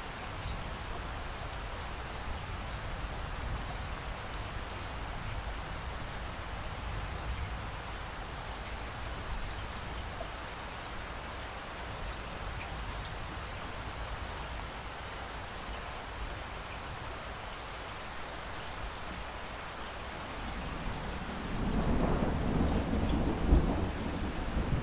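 Steady rain falling, with a rumble of thunder swelling in near the end.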